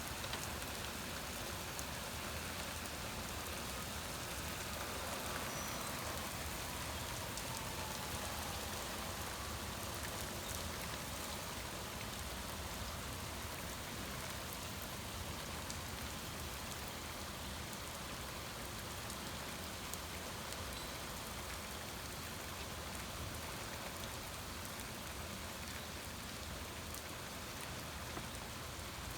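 Heavy rain falling steadily, an even hiss with scattered faint ticks of drops striking surfaces.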